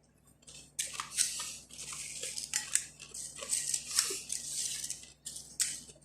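Crunchy fried khubz flatbread being chewed close to the microphone: an irregular run of crisp crackling crunches, starting about a second in.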